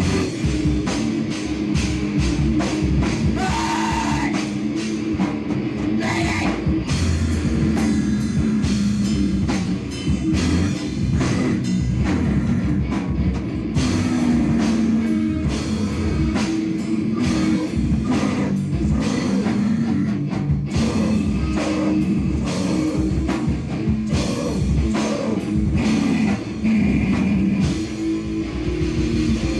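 Loud live noise-rock band playing: a dense, distorted low drone from guitar and bass under rapid, continuous drum-kit hits.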